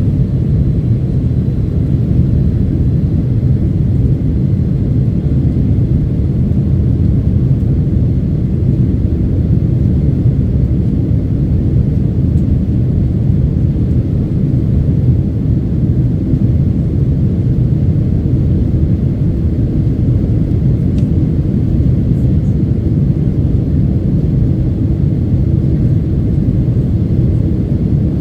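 Steady low rumble inside the cabin of a Boeing 767-300ER airliner: its engines and the airflow past the fuselage, holding an even level throughout.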